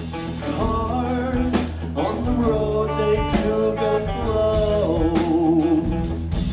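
Live rock band playing: steady bass and drum hits under a melodic lead line of bending, wavering notes, with a long wavering held note about five seconds in.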